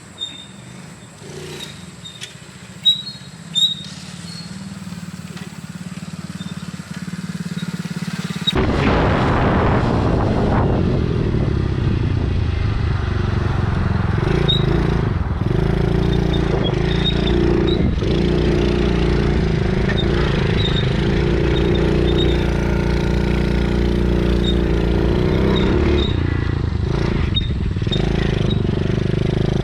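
Small 110cc four-stroke pit bike engine running. It grows louder over the first several seconds, with a couple of sharp knocks, then turns suddenly loud and close about a third of the way in and runs on steadily with small rises and falls in pitch as it is ridden.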